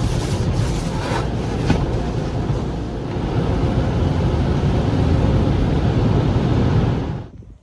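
Car noise heard from inside the vehicle: a loud, steady low rumble that cuts off abruptly near the end.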